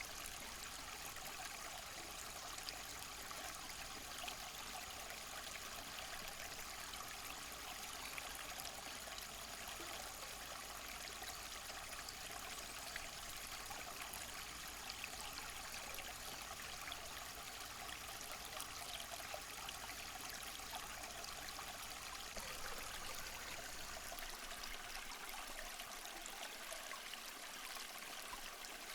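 Steady, even rushing noise, like running water, with faint ticks scattered through it.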